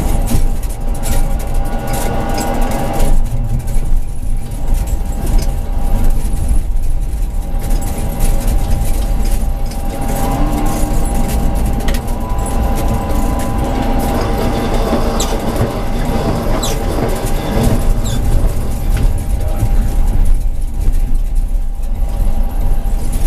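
Tram in motion on street track, heard from the driver's cab: a steady rumble of wheels on the rails with a constant high tone running through it.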